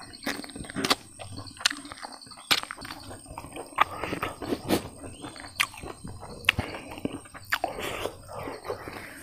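Close-miked eating by hand: chewing, lip-smacking and sharp crisp clicks every half second or so, with a few wetter, noisier stretches of chewing.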